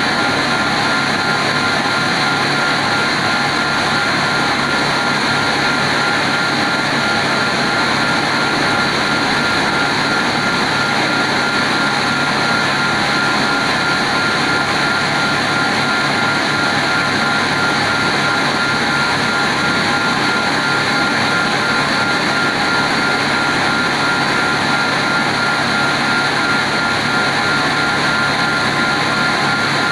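CNC stone-cutting wire saw running steadily: a continuous mechanical whir with a constant high whine that does not change.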